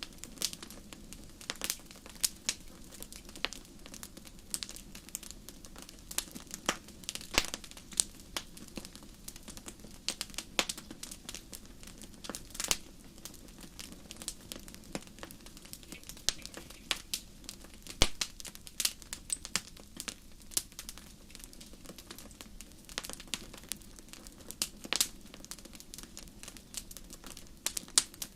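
Fire burning in a fireplace, crackling with irregular sharp pops over a low, steady rush of flame. The loudest pop comes about 18 seconds in.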